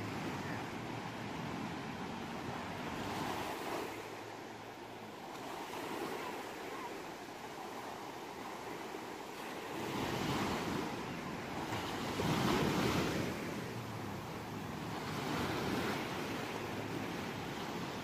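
Ocean surf: waves breaking and washing ashore in repeated surges every few seconds, the strongest about twelve seconds in.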